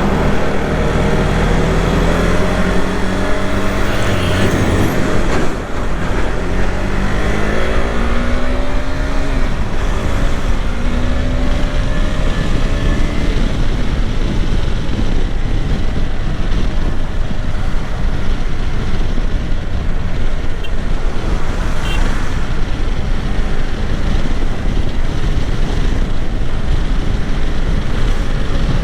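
KTM 390 Adventure's single-cylinder engine running under way: its pitch climbs and drops several times through the first ten seconds or so, with a short dip about five seconds in. After that, rushing wind on the microphone dominates, with the engine steady underneath.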